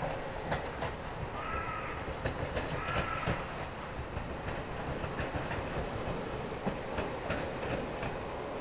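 Toyama Chihō Railway 14760-series electric train running, its wheels clicking over rail joints with a steady rumble. Two short high squeals sound about a second and three seconds in.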